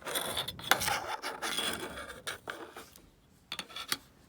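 Kinetic sand being scraped and crumbled, a gritty rasping in a run of strokes that stops about three seconds in, followed by a few light clicks near the end.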